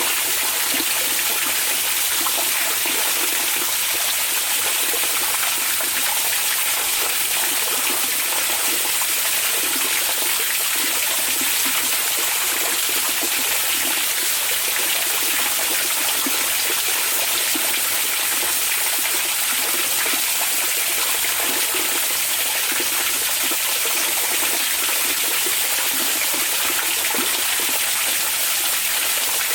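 Hot-spring water pouring and splashing steadily into a bath: a constant, even rushing hiss, bright and heavy in the high end, that does not change throughout.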